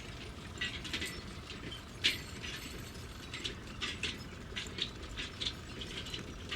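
A truck rattling as it rides over rough ground: irregular clicks and clinks over a low steady rumble.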